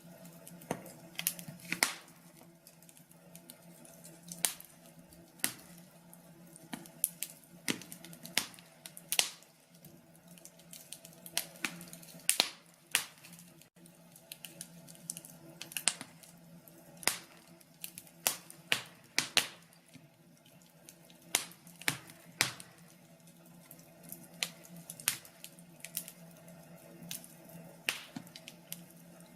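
Wood fire crackling in a fireplace: irregular sharp pops and snaps, one or two a second, some much louder than others.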